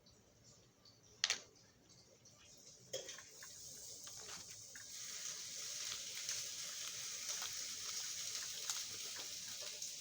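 Small screws rattling and clinking in a jar as a hand stirs through them, searching for one: a sharp click about a second in, then a steady hissing rattle that builds after about three seconds.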